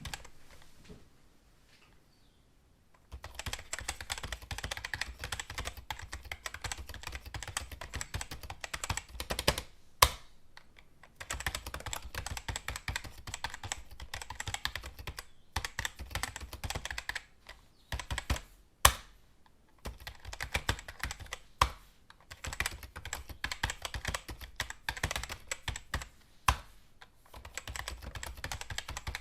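Computer keyboard typing: fast runs of key clicks in bursts with short pauses, and a few single louder key strikes standing out. The typing starts about three seconds in, after a quiet moment.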